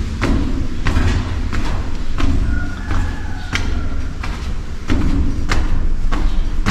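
Footsteps striking a hard floor at a steady walking pace, about three every two seconds, over a constant low rumble of wind buffeting the microphone. A faint high whistle sounds briefly near the middle.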